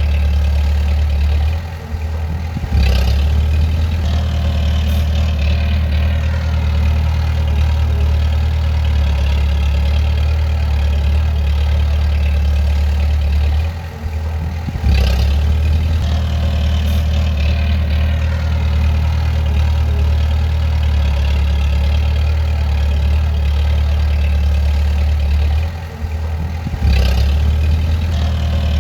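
Bulldozer diesel engine running with a steady, deep drone. About every 12 seconds the engine dips briefly, three times in all, and each dip ends with a sharp metallic clank as the engine picks up again.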